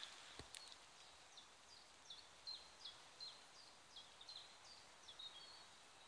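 Near-silent woodland quiet with a small bird singing a run of about a dozen short, high, falling chirps, about three a second, starting a second and a half in and stopping near the end.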